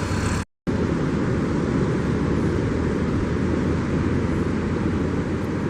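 Steady outdoor rush of wind and water at an estuary mouth on an outgoing tide. A brief dropout about half a second in.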